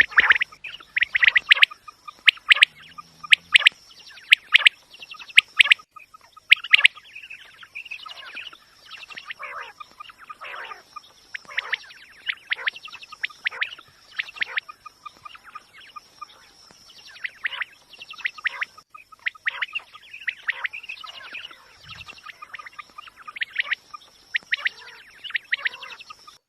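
Quail calling over and over in quick series of short, sharp notes, loudest in the first few seconds. A faint steady high tone runs underneath.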